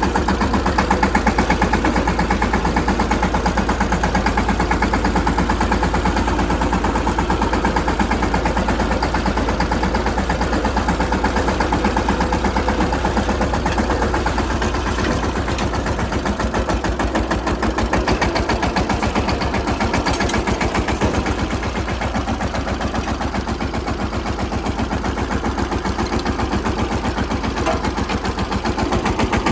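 Mahindra Yuvraj 215 tractor's single-cylinder diesel engine running steadily, with a rapid, even beat.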